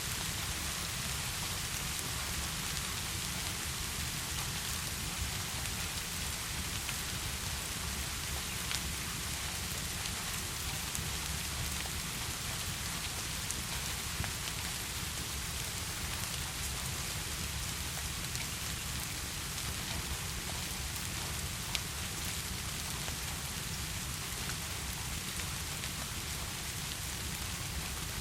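Steady heavy rain falling in a dense, even hiss, with a few isolated sharp ticks.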